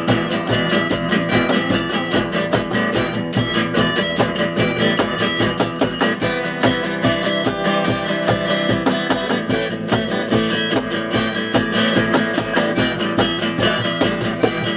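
Rock band playing an instrumental passage: strummed guitars with bass and drums keeping a steady beat, no vocals.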